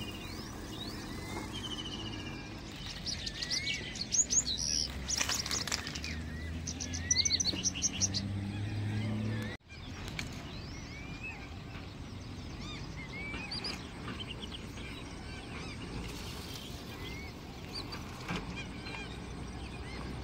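Small birds chirping and calling over outdoor background noise: short rising chirps throughout, with a louder run of rapid calls in the first half. The sound drops out for an instant about ten seconds in.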